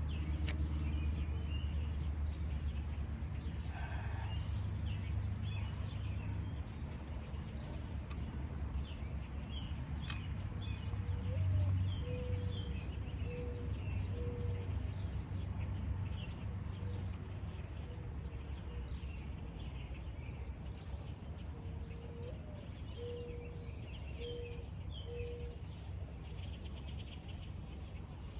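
Birds calling outdoors: many short high chirps throughout, and twice a run of four or five low hooting notes, over a steady low rumble.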